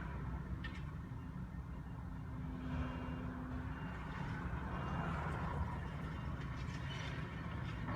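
Volvo demolition excavator's diesel engine running steadily, with a low tone standing out for a second or so before the middle and a few light knocks.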